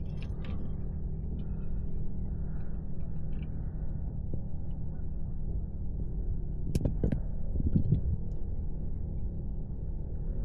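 A steady low rumble, with a few short knocks about two thirds of the way through.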